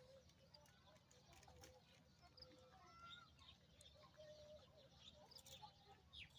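Near silence: faint, scattered short bird calls and chirps over a low steady hum.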